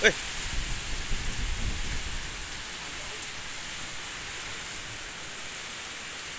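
Heavy tropical rainstorm: a steady hiss of rain pouring down, with wind buffeting the microphone in the first two seconds before it eases.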